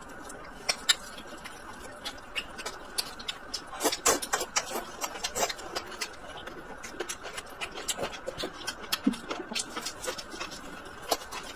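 Close-miked chewing of a pan-fried scallion pancake: a rapid run of small wet mouth clicks and smacks, thickest and loudest about four to five seconds in, over a faint steady hiss.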